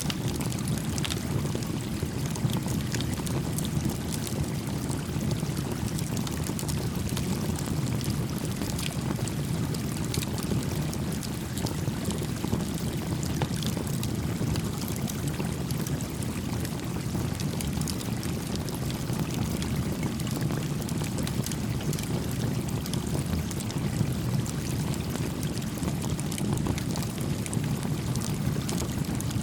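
A small creek babbling steadily with a deep, continuous gurgle, while a small campfire crackles now and then with light scattered pops.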